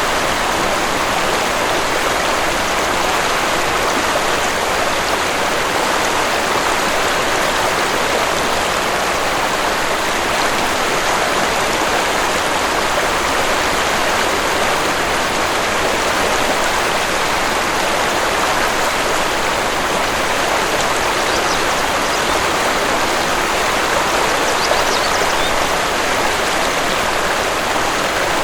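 Waterfall and stream water rushing in a steady, even wash.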